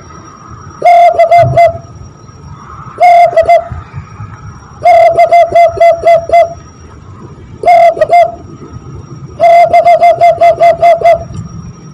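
Zebra dove (perkutut) cooing imitated by blowing into cupped hands. There are five bursts of quick, repeated hollow whistled notes with pauses between them, and each note drops off in pitch at its end.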